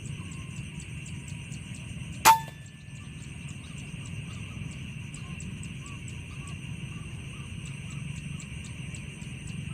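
A single sharp crack of a PCP air rifle shot about two seconds in, with a short ring after it. Under it runs a steady background of insects chirring, with rapid, even ticking.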